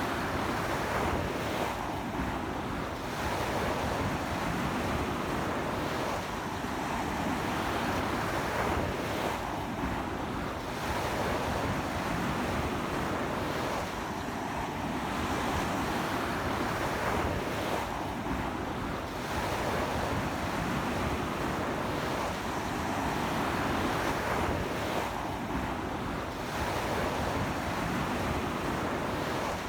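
Ocean waves breaking and washing up a beach in a strong sea wind, a continuous surf with swells every few seconds, with wind buffeting the microphone.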